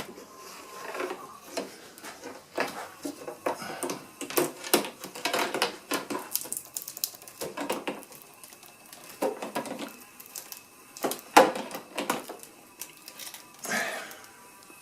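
Plastic Flow Frame cells clicking and clattering as the metal Flow key is turned inside the frame, splitting the honeycomb cells so the honey can start to drain. The clicks and knocks come irregularly, the loudest about eleven seconds in.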